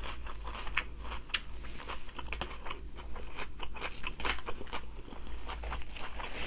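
A person chewing food with mouth sounds, crunching with irregular crisp clicks several times a second.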